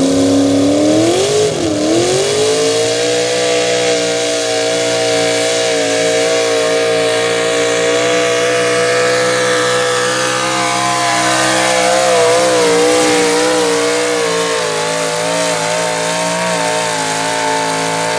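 Two-wheel-drive super stock pulling truck's engine held at full throttle down the track, dragging the sled. The revs climb over the first couple of seconds, hold high and steady, waver briefly about two-thirds of the way through as the load comes on, then rise again near the end.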